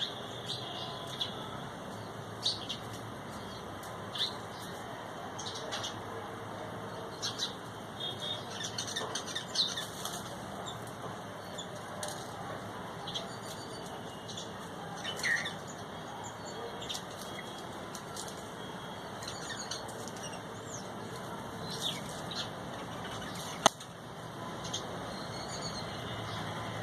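Small birds giving short, scattered chirps over a steady background hiss, with wings fluttering. A single sharp click about 24 seconds in.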